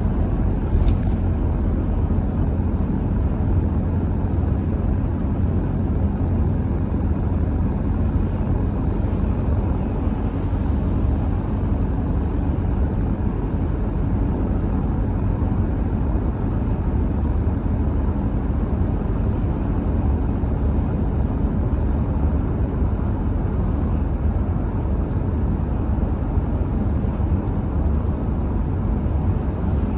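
A car driving at steady speed: a continuous low rumble of tyre, road and engine noise. A brief faint tick about a second in.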